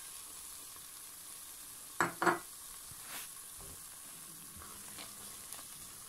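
Onion and spice masala frying in mustard oil in a stainless steel pot, a steady sizzle as tomato purée is added and stirred in with a wooden spoon. Two sharp knocks about two seconds in.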